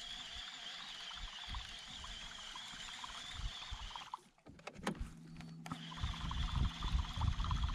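Kayak on the water: a steady high background sound, a few sharp clicks about four seconds in, then a low steady hum with repeated knocks and rumble from the hull.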